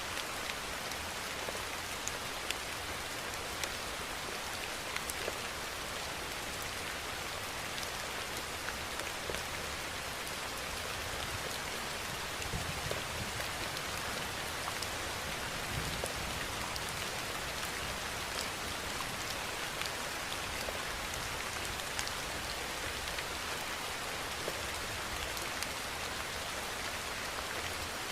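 Steady rainfall: an even hiss with scattered sharp taps of single drops.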